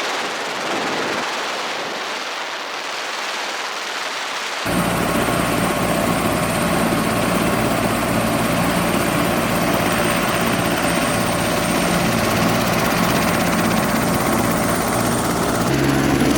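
Helicopter running steadily, a loud dense noise with low hum lines that cuts in abruptly about four and a half seconds in. Before that there is only a thinner hiss with no low end.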